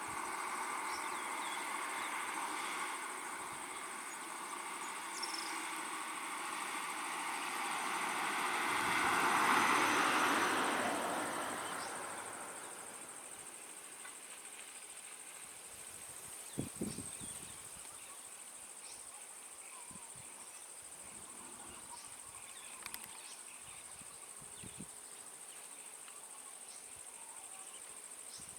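Steady high-pitched drone of insects, with a passing vehicle swelling up and fading away about ten seconds in, and a few short knocks around seventeen seconds in.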